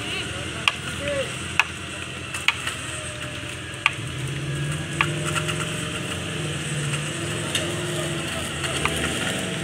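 Suzuki Jimny engine running at low revs as it crawls slowly up a rocky climb, its hum strengthening about halfway through. Several sharp clicks sound at irregular intervals over it.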